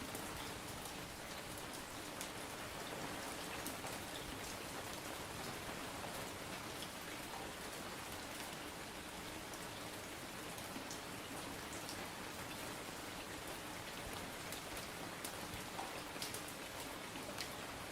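Steady rainfall: a constant even hiss with individual raindrops ticking sharply here and there.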